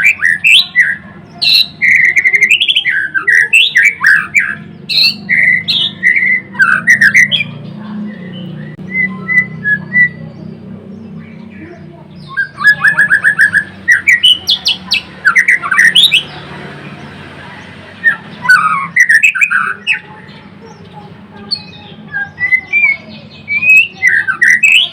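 White-rumped shama singing loud, fast, varied phrases of whistled and rapid chattering notes in bursts, with pauses of a few seconds between them, over a steady low hum.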